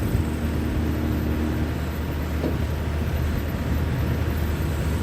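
Bobcat T650 track skid steer's diesel engine running steadily, with a steady two-tone hum over it that stops about a second and a half in.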